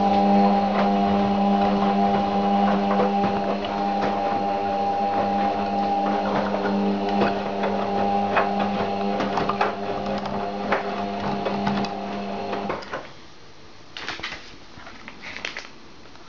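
Beko washing machine running with a steady motor hum and scattered clicks and rattles, which cuts off suddenly about 13 seconds in; a few short rustling knocks follow near the end.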